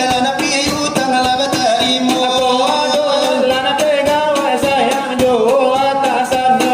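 Selawat dulang: singers chanting a melismatic Islamic devotional song over a fast, steady beat struck on metal trays.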